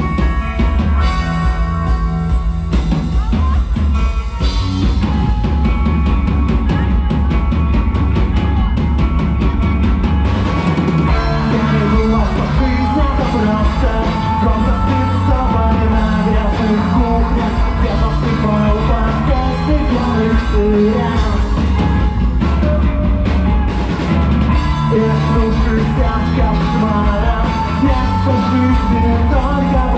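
Rock band playing live, with a loud drum kit and a full, steady low end under pitched guitar parts.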